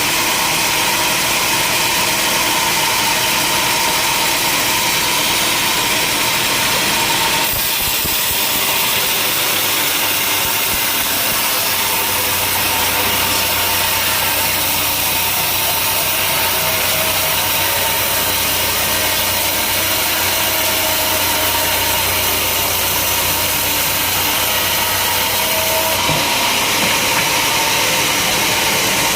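Sawmill machinery running, a steady engine-and-saw noise. The sound changes abruptly about seven seconds in and again near the end, and a low hum joins it in the middle.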